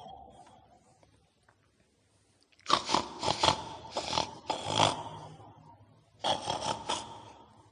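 Pig-like grunting and snorting in two rough groups, the first after about two seconds of quiet and the second shortly after it.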